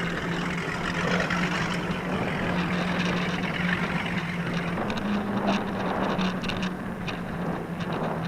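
Motorboat engine running at low speed with a steady drone that rises slightly in pitch about five seconds in, over a hiss of wind and water.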